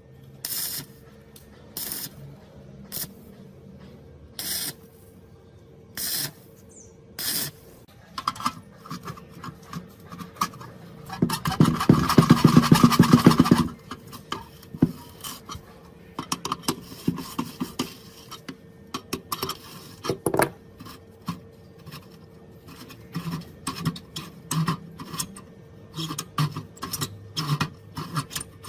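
Hand work on metal parts: short hissing bursts about a second apart, then a loud rapid mechanical rattle for about two seconds near the middle, then irregular scraping and rubbing.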